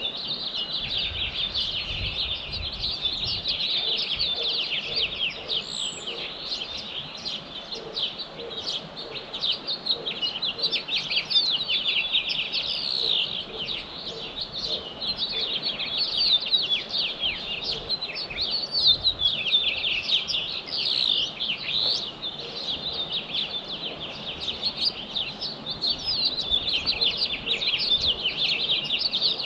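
Dawn chorus of many small songbirds chirping and singing at once, a dense, continuous tangle of quick, high, overlapping chirps and short trills.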